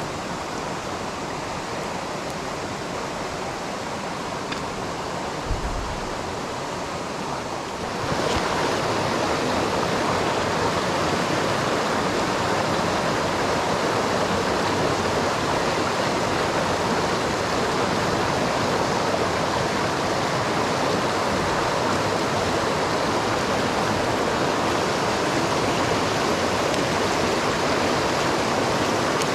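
Mountain stream rushing over rocks, a steady wash of water that gets louder about eight seconds in. A soft low bump sounds about five seconds in.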